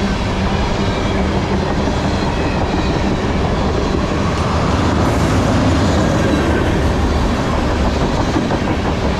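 Freight train of tank cars rolling past: steady noise of steel wheels running on the rails.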